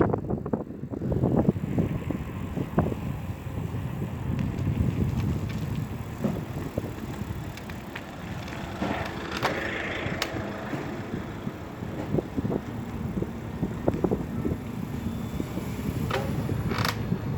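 Bicycle being ridden: a steady rumble from the tyres on the road, with scattered rattles and clicks from the bike.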